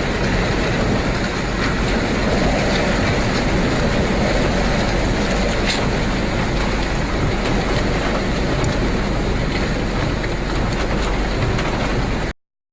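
Loud, steady roar of storm wind and rain, with a few faint sharp clicks, cutting off suddenly near the end.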